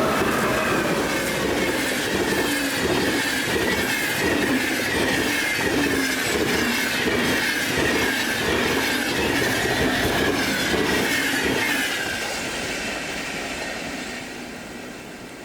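Train passing close by, its wheels clattering rhythmically over the rails with a high squealing tone that slowly falls in pitch. The sound fades away over the last few seconds as the train moves off.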